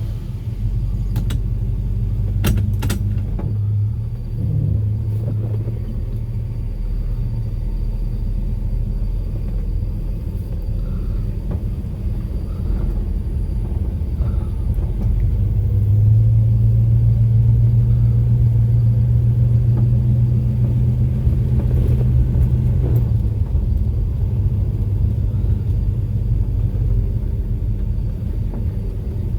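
Crate 350 small-block V8 of a 1948 Chevrolet Fleetmaster street rod running with a steady low rumble, growing a little louder in the middle stretch before settling back.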